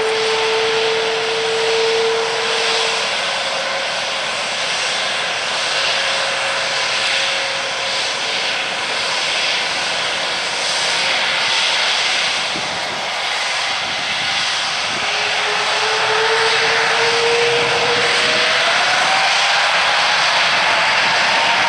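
Jet engines of an Airbus A330-343, Rolls-Royce Trent 700 turbofans, running as a broad rushing noise with thin whines above it. From about fifteen seconds in, a whine climbs steadily in pitch and the sound grows slightly louder.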